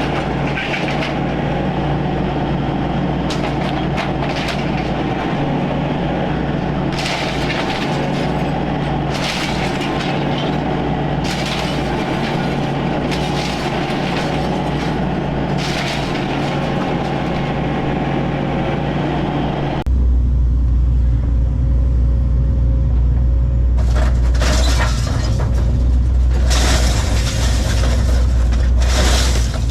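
Diesel excavator engine running steadily under load while it tears apart a trailer, with repeated crashes of breaking and shattering material. About two-thirds of the way through, the engine sound turns abruptly louder and deeper, and the crashes go on.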